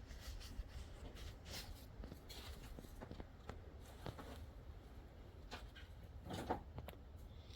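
Scattered light clicks and clinks of hand tools, a socket being tried on the car battery's hold-down nut, with a somewhat louder knock about six and a half seconds in, over a low steady rumble.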